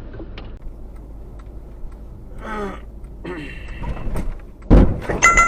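Steady low rumble of a moving car, with a sudden loud thump near the end followed briefly by a steady high-pitched tone.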